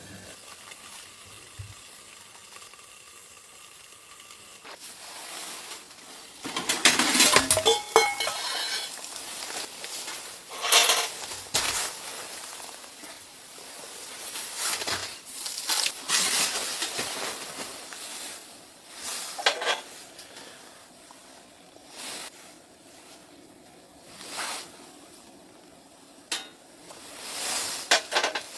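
Cookware being handled: irregular scraping and clinking of metal utensils against a pot or pan, a dozen or so short bursts with pauses between them.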